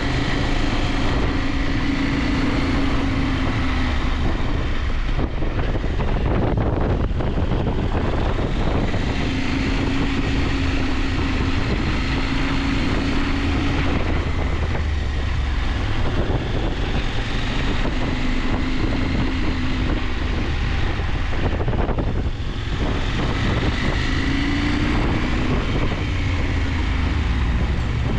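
KTM 890 Adventure's parallel-twin engine running on the move, its note rising and falling as the revs change, over steady wind rush.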